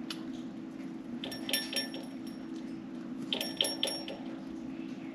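Two short bouts of metallic clinking and jingling from the budgies' cage, one about a second in and another past three seconds, with a steady low hum underneath.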